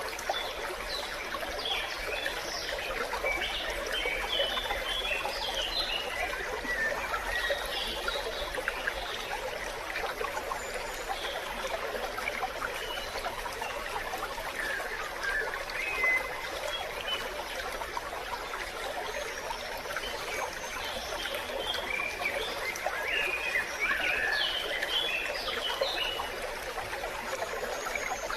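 Small stream running in a steady babble, with brighter, higher trickling bits thickest in the first few seconds and again near the end.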